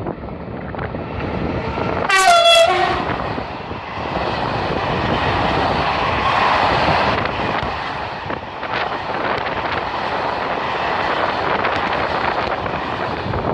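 A train sounds a short horn blast about two seconds in, then runs past with a steady rolling noise and scattered wheel clicks over the rail joints.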